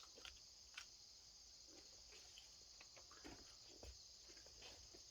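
Near silence, apart from a faint, steady, high-pitched chorus of insects, typical of crickets, with a few faint ticks.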